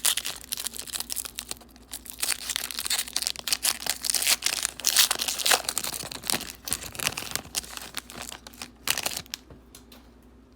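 A trading card pack's wrapper being torn open and crinkled, a dense crackling that dies away near the end.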